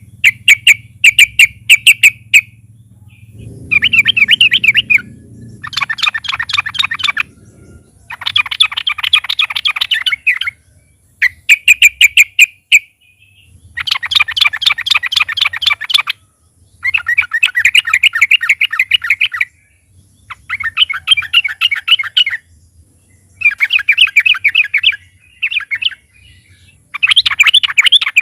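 Yellow-vented bulbul (trucukan) singing in bursts of rapid chattering notes, each phrase lasting one to three seconds with short pauses between, over a faint low hum.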